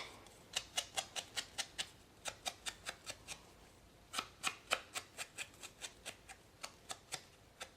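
Ink sponge dabbed repeatedly on the edges of a punched paper label, making short soft taps about four a second in two runs with a brief pause near the middle.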